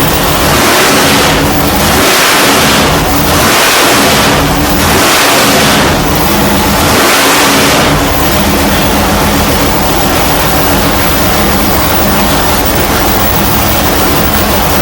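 Fuel-injected 632-cubic-inch big-block Chevy V8 on an engine dyno, revved in about five quick blips over the first half, then settling into steady running.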